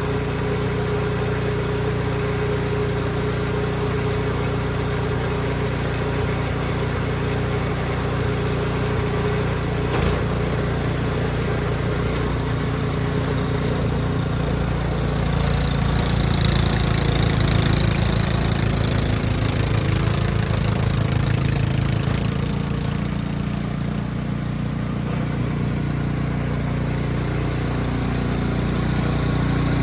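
Snow blower engine running steadily. A hissing rush joins it for several seconds past the middle.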